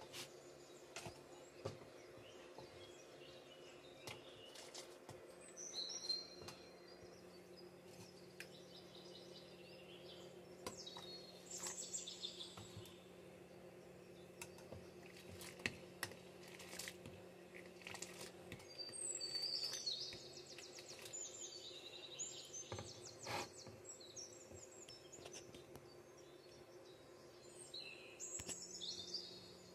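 Faint birds chirping and trilling in short bouts over a steady low hum. Scattered light clicks of a metal spoon against an aluminium pan.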